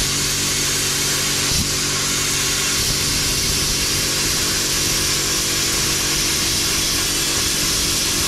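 Bestarc plasma cutter cutting through a steel firewall panel: a loud, steady hiss of the arc and air jet, with a low hum underneath.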